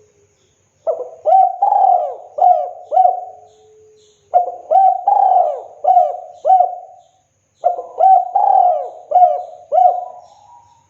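Spotted dove (tekukur) singing its cooing song: three phrases, each a quick run of several coos, with short pauses between them.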